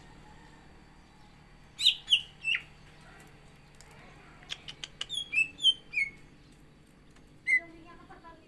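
Green leafbird (cucak ijo) singing: loud, sharp, downward-sweeping whistled notes in short bursts, three together about two seconds in, then a few clicks and a quick run of five notes around five seconds, and one more note near the end.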